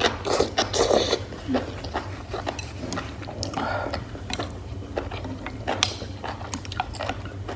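Close-miked chewing of food with many short wet mouth clicks and smacks, over a steady low hum.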